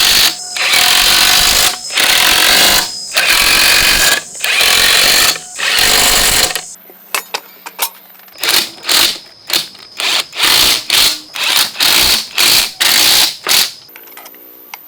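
A power tool run in repeated loud bursts. The first bursts last about a second each; after a short pause near the middle come quicker, shorter bursts of about two a second.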